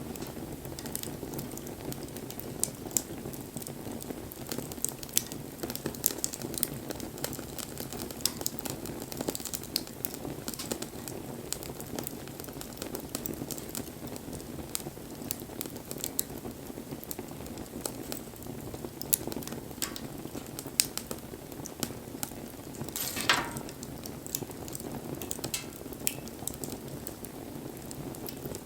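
Wood fire burning with a steady low rush of flames and frequent sharp crackles and pops. About two-thirds of the way through, a short hiss falls in pitch, as from gas or steam escaping from the wood.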